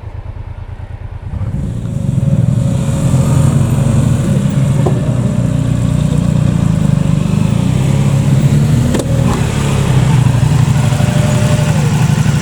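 Honda Deauville's V-twin engine pulling under load on a steep climb. It gets louder about a second and a half in, then runs steadily.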